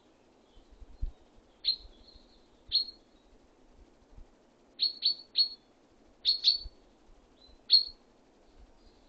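Small songbird giving short, sharp call notes, about eight in all, several in quick pairs or triplets. A couple of low knocks come in between, about a second in and again near six and a half seconds.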